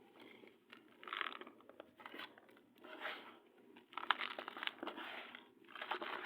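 Dry, crunchy black sand being crushed and crumbled, crackling in a run of short bursts about once a second, with a longer run of crunching past the middle.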